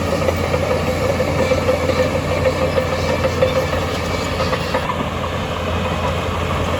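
Heavy diesel earthmoving machine running steadily under load, with a constant low hum and a wavering whine that fades about halfway through.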